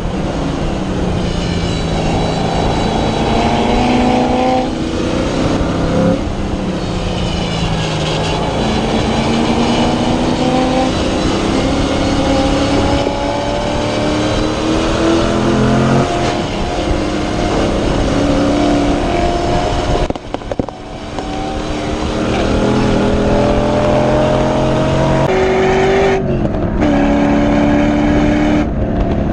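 LS1 V8 in a BMW E30 race car at hard throttle, its pitch climbing through the revs and stepping down at several upshifts. About two-thirds of the way through it drops off briefly as the throttle is lifted, then pulls hard again.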